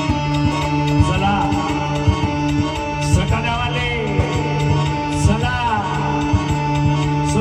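Live band playing a dance song: drums keep a steady beat under a held droning chord, while a singer's voice bends through short melodic phrases.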